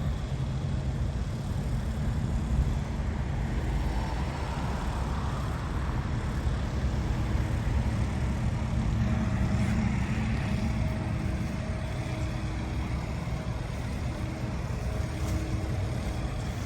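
Model T Fords' four-cylinder engines running as the cars drive in along the road: a steady low rumble.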